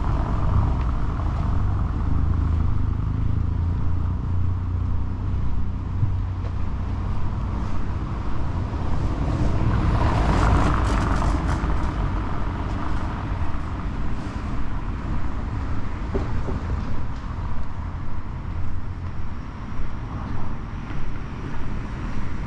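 Road traffic on a city avenue: a steady low rumble of car engines and tyres, with one vehicle passing close and swelling loudest about halfway through.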